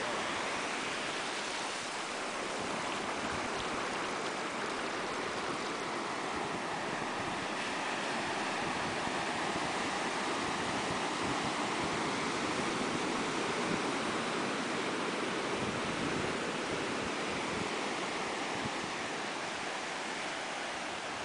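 Ocean surf washing onto a beach: a steady rush of breaking waves that swells slowly and eases off near the end.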